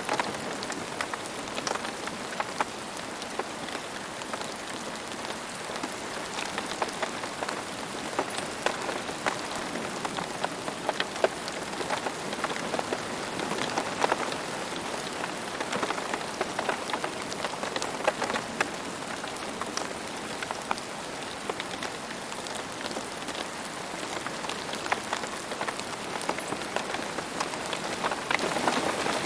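Steady rainfall: an even hiss of rain with many distinct drops ticking and pattering on a surface throughout.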